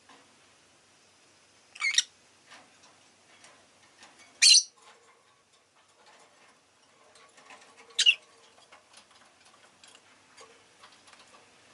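Rosy-faced lovebird giving three short, shrill calls, a few seconds apart, with faint scattered clicking between them.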